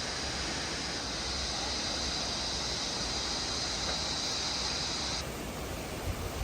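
Waterfall's rushing water, a steady even roar. A steady high-pitched hiss on top of it cuts off abruptly about five seconds in.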